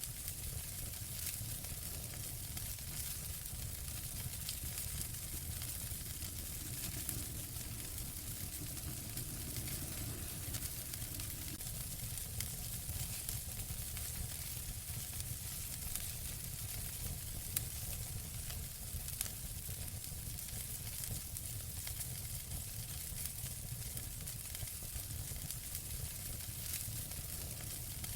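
Wood fire burning in a fireplace, crackling steadily with a hiss and many small pops over a low rumble; one pop stands out a little louder.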